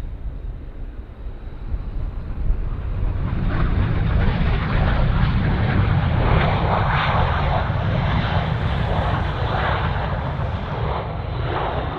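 Jet airliner's engines roaring as it passes close by. Under a low rumble, the sound swells about three seconds in and stays loud.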